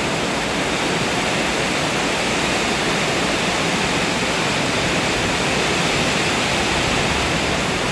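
Heavy storm rain pouring down, a dense, steady hiss.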